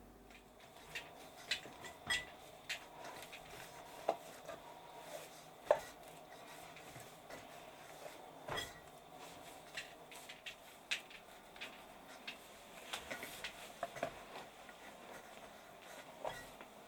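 Kitchen work: irregular knocks and clinks of utensils against dishes and pots, some ringing briefly.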